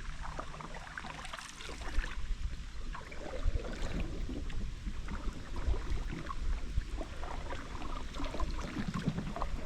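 Canoe on a river: light water splashes and small irregular knocks against the hull, with a low wind rumble on the microphone.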